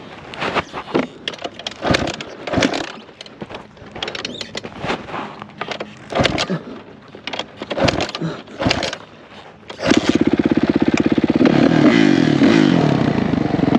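Irregular clattering knocks and scrapes, then about ten seconds in a single-cylinder four-stroke off-road engine fires and keeps running with a fast, even beat.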